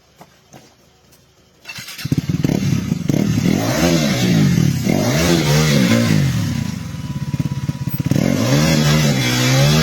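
Off-road motorcycle engine starting to run loud about two seconds in after a few faint clicks, its pitch rising and falling several times as it revs up and eases off.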